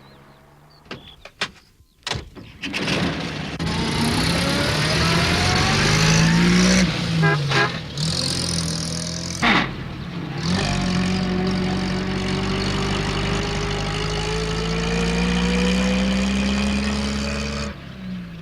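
Van engine pulling away and accelerating, its pitch climbing again and again as it changes up through the gears, with a few clicks about a second before it gets going.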